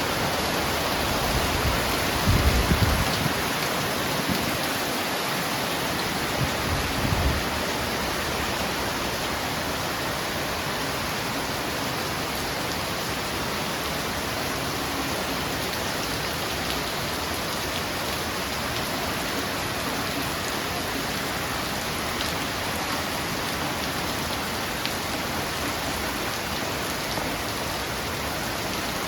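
Steady rain falling and pattering on surfaces, with two brief low rumbles in the first several seconds.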